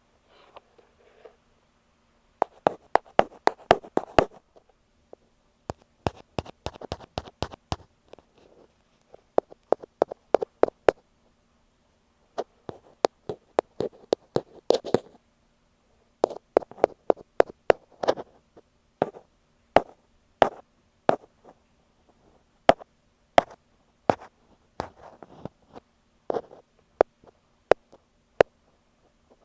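Ear pick tapping on an earphone microphone: sharp, close clicks in quick runs of taps with short pauses. In the second half the taps come more spaced out, one or two at a time.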